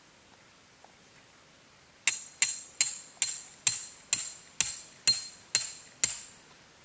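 A hammer driving a metal tent peg: ten sharp, ringing blows in a steady rhythm that slows a little, starting about two seconds in.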